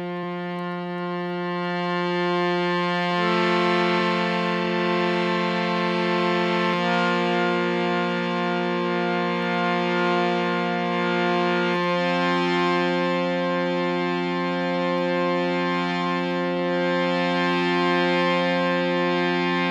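Hand-pumped harmonium playing slow sustained chords over one held low note, the upper notes changing three times.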